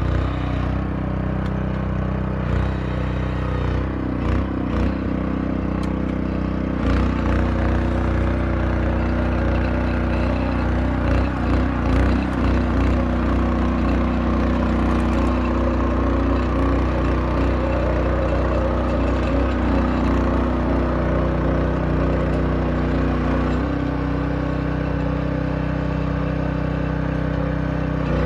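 Tractor engine running steadily while digging, its pitch stepping up and down several times as the load changes, with occasional knocks and clatter.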